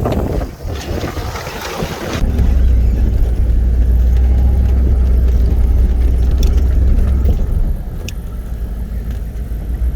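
1996 GMC K3500's 6.5 turbo diesel working under load while plowing snow, with a deep, loud rumble that eases about three-quarters of the way through. A rushing hiss fills the first two seconds and then cuts off.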